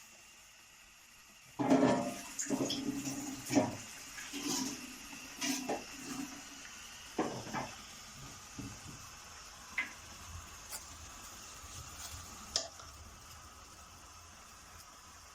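Kitchenware clattering with water splashing: a busy run of knocks and clinks of pots, dishes and utensils in the first half, then a few scattered clinks over a steady hiss.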